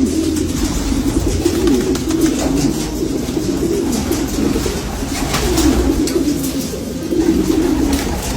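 Homer racing pigeons cooing, low wavering coos overlapping with no break, with a few faint clicks around the middle.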